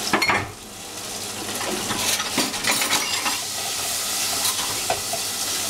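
Julienned cabbage sizzling in hot oil in a saucepan as it is stirred, with a steady hiss and the small clicks and scrapes of the utensil. There is a loud clatter right at the start.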